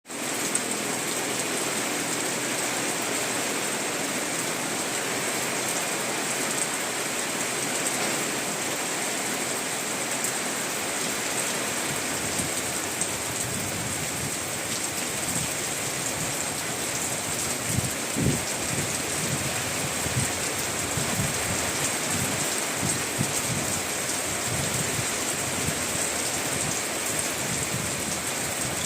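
Storm noise: a steady hiss of heavy rain with strong wind, the wind gusting against the microphone in low rumbles from about halfway through, and one heavier thump about two-thirds of the way in.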